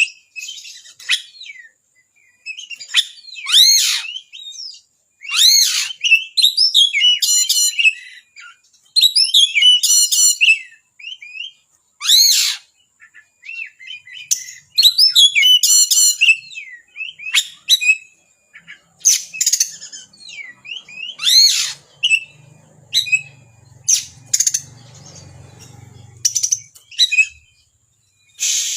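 Oriental magpie-robin (kacer) singing: loud phrases of sharp, fast-sweeping whistled notes and chattering trills, broken by short pauses of a second or two.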